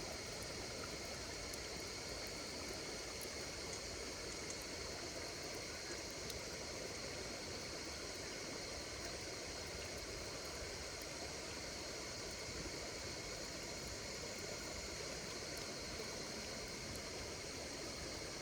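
Campfire burning with a steady hiss and occasional small crackles, over a continuous chorus of insects calling in steady high-pitched trills.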